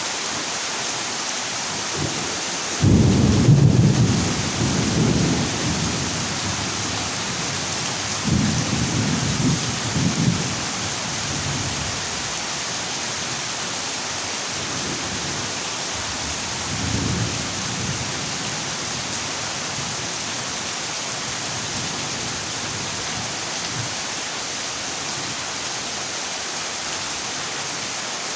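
Heavy rain falling steadily on a zinc roof with a constant hiss, and rolling thunder over it: a loud peal starts suddenly about three seconds in and dies away over a few seconds, another rumbles around eight to ten seconds, and a fainter one near seventeen seconds.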